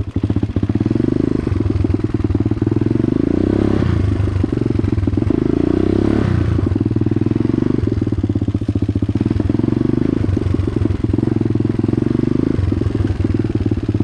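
Dirt bike engine running under way, its revs climbing and falling with the throttle, swelling around four and six seconds in.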